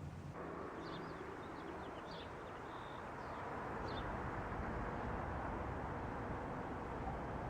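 Outdoor ambience: a steady rushing noise with a low rumble, over which a small bird gives short high chirps and twitters from about a second in to about four seconds in.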